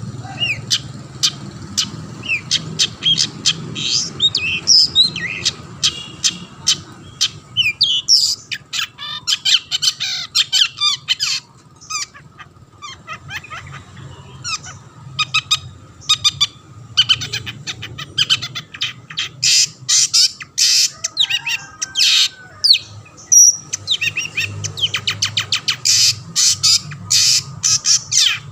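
Long-tailed shrike (cendet) singing vigorously: a rapid, dense run of harsh chattering notes and varied phrases, with brief pauses about twelve seconds in and again a little past twenty seconds.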